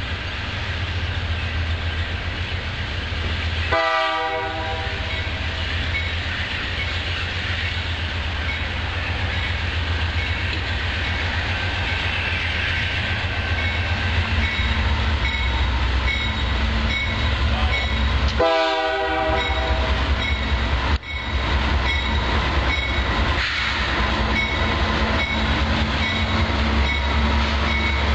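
Freight train led by Canadian Pacific diesel locomotives approaching and passing, their engines running with a steady low rumble. The locomotive horn sounds a short blast about four seconds in and another about nineteen seconds in.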